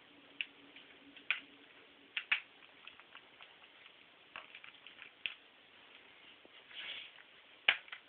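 Cockatiels at a plastic water dish, giving irregular sharp clicks and taps as beaks and feet strike the dish and dip into the water, with a brief soft splash or rustle shortly before the loudest click near the end.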